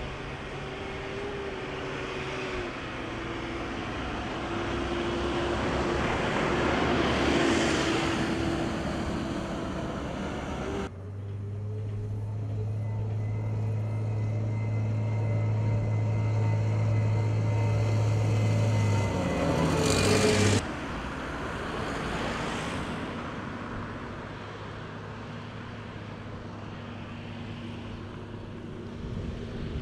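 Motor vehicle engines running steadily with outdoor noise. The sound changes abruptly about eleven seconds in, when a strong low steady engine tone takes over, and again about twenty seconds in.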